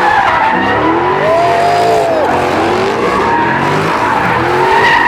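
Car tyres squealing steadily under wheelspin, with the engine revving up and down beneath.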